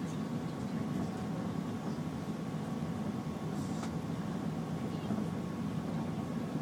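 Steady low rumble of an Airbus A380 airliner heard from inside the passenger cabin in flight: engine and airflow noise, with a faint steady high tone running through it.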